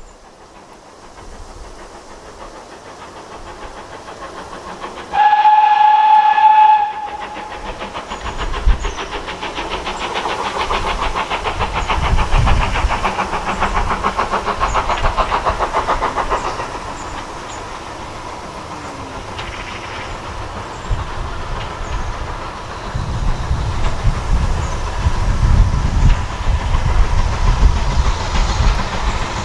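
Steam locomotive whistle sounding once for about two seconds, the loudest sound here, followed by the engine's fast, even exhaust beats building up and then the low rumble and clatter of the train running past.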